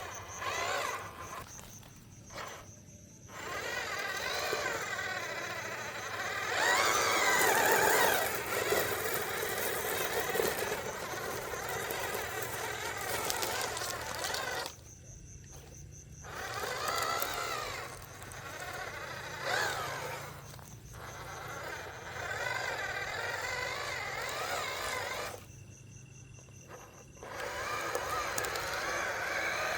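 Small electric motor of a toy monster truck whining, rising and falling in pitch as it speeds up and slows down, broken by several abrupt cuts to silence.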